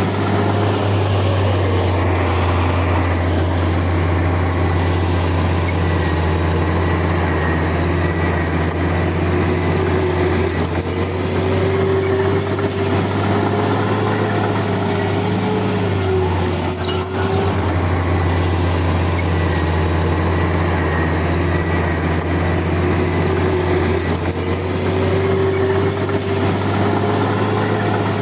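Heavy diesel engine of a Komatsu bulldozer running steadily under load, with a whine over the low engine drone that fades and climbs back twice.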